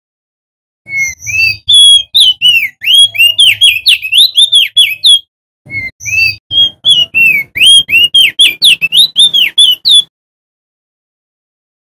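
Male crested darkeye (opior jambul) singing: two bouts of rapid, loud, clear whistled notes that slide up and down, each about four seconds long with a brief pause between them.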